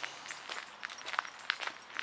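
Footsteps of a person walking at a steady pace, a crisp scuff or crunch two or three times a second.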